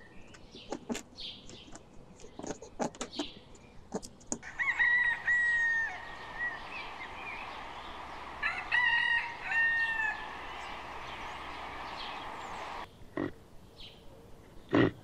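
Rooster crowing twice: a long crow about four and a half seconds in and a second, broken-up crow about eight and a half seconds in, over a steady hiss. Short clucks and clicks come before the first crow.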